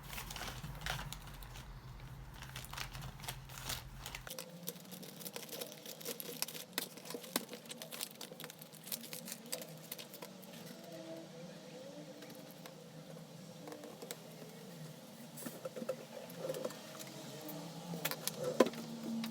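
Faint scattered clicks and light clatter of small objects being handled, busiest near the end.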